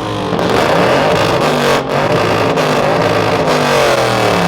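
Car engine revving hard, its pitch rising and falling several times.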